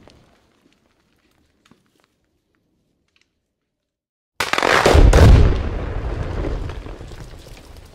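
A few seconds of near silence, then a rock-blasting charge goes off: a sudden boom with a deep rumble that fades away over about three seconds.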